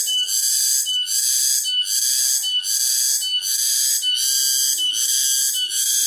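Cicada chorus, a loud high-pitched buzzing song that swells and dips in an even rhythm a little faster than once a second.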